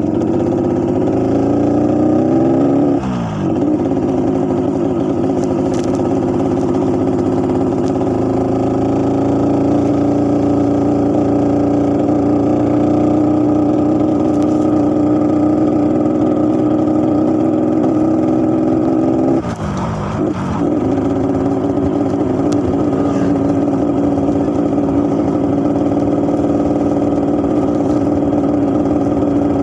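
Motorcycle engine on its stock exhaust with a deep, growly note. It revs up over the first three seconds, drops briefly, then holds steady; about twenty seconds in the revs dip for a moment and come back to the same steady note.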